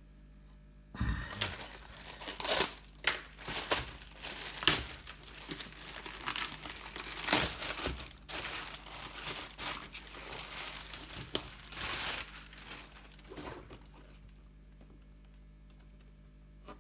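Plastic packaging crinkling and tearing as a package is opened by hand, with several sharp louder rips among the rustling. It starts about a second in and stops near the end.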